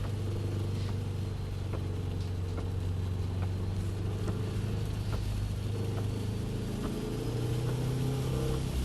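Car engine running steadily at part throttle, with its note rising a little toward the end as it accelerates gently.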